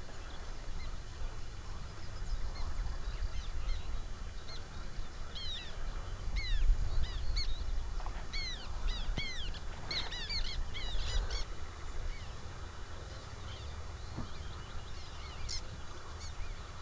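Birds calling in many short, quick chirps, thickest in the middle stretch, over a steady low rumble.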